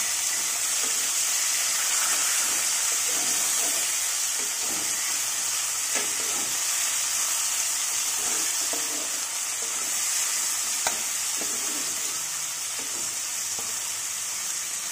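Chopped tomatoes and sliced onions sizzling steadily in hot mustard oil in a nonstick pan, with a spatula stirring and scraping them, giving scattered light knocks.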